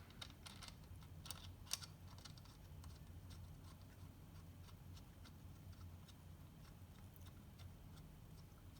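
Faint, scattered small clicks and light taps of hand tools and engine parts being handled, a few sharper ones in the first two seconds, over a low steady hum.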